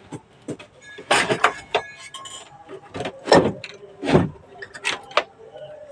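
Handling noise: a string of sharp clicks and knocks, the loudest about three and four seconds in, as the player and its cables are moved and set up before power is applied.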